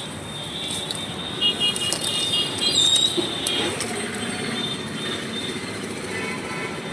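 Busy street ambience: steady traffic noise with a few short high tones and clicks mixed in.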